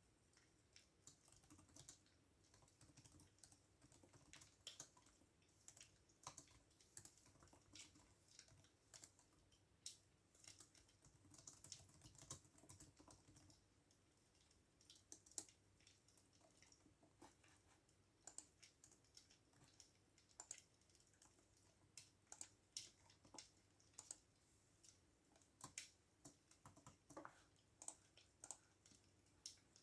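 Typing on a computer keyboard: quiet, irregular keystrokes in uneven runs, with short pauses between them.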